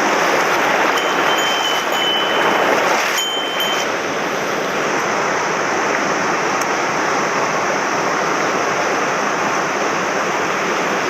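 Mountain stream running high and fast after heavy rain, a steady dense rush of water.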